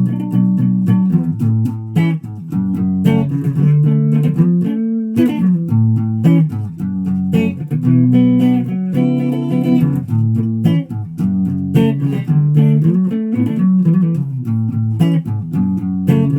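Guitar music: plucked notes in a steady rhythm over a bass line.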